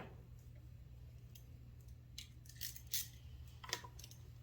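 Faint, scattered clicks and light metallic clinks of hand tools and small carburetor parts being handled, about half a dozen over a few seconds, over a low steady hum.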